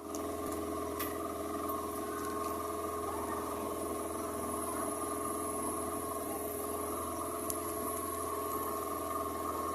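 Motorboat engine running at a steady speed, a constant droning hum with water noise from the hull moving through the water.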